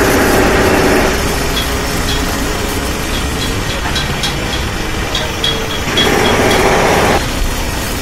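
Radio-controlled model truck running, a steady mechanical motor-and-gear noise with a low rumble that grows louder in the first second and again about six seconds in.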